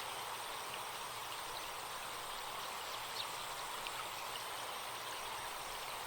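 Forest stream running steadily, with a few faint short bird chirps and a thin, steady high insect buzz over it.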